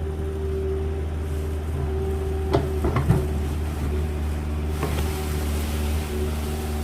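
An engine running steadily with a constant low drone, with a few short knocks at about two and a half, three and five seconds in.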